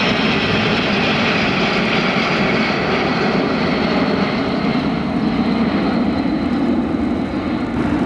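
A fixed-wing aircraft's engine running loud and steady, easing off slightly over the stretch.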